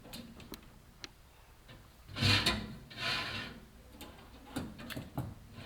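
Chimney inspection camera rubbing and scraping against the clay flue tiles as it is lowered down the flue. There are two rasping scrapes a couple of seconds in, and scattered light ticks and knocks.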